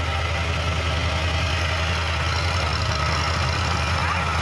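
Tractor diesel engine idling steadily, a low, even running hum.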